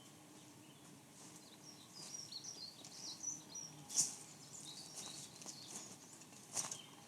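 Small birds chirping: a run of short, high chirps starts about two seconds in, faint over quiet outdoor background. Two sharp clicks or snaps cut in, one around the middle and one near the end.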